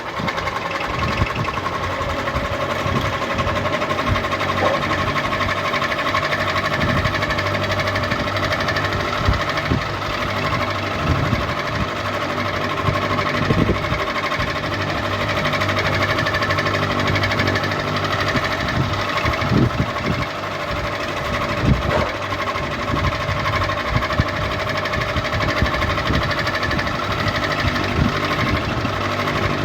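Ceiling fan running steadily, its motor humming with a light irregular clicking.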